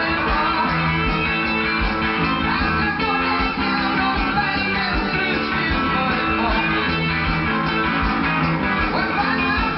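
1960s folk-rock recording in a guitar-led instrumental passage without vocals: guitars over bass with a steady beat.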